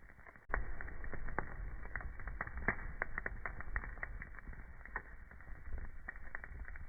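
Wood fire crackling in a fireplace: irregular sharp pops and snaps over a low rumble of burning. About half a second in, the whole sound jumps suddenly louder.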